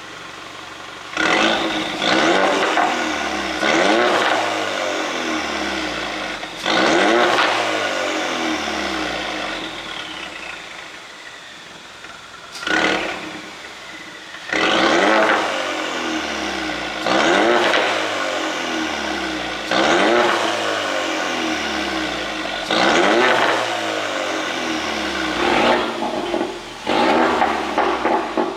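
2017 Ford Mustang 2.3 EcoBoost's turbocharged four-cylinder engine revved about a dozen times, each rev rising and then falling back towards idle, which holds between revs. It runs an ECU tune set to make exhaust pops on the overrun.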